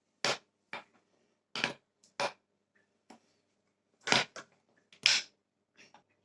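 A utensil knocking and clinking against a plate while cake batter is stirred by hand: about eight short, irregular clicks.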